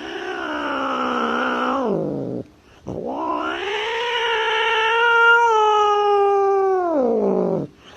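Cat yowling in two long, drawn-out calls. The first falls in pitch after about two seconds. The second rises, holds and then sinks away near the end.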